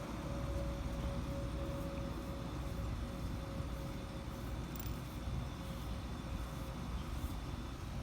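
Distant vehicle noise: a steady low rumble with a faint steady hum that fades out about two-thirds of the way through.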